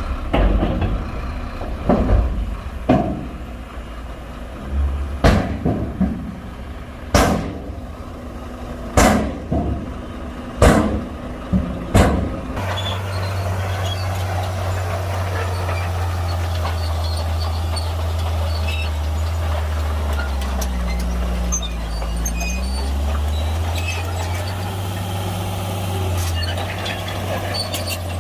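Shantui bulldozer at work: a run of sharp metallic clanks about every one and a half to two seconds, then, from about halfway, the diesel engine's steady low drone, which sags in pitch briefly under load and picks up again.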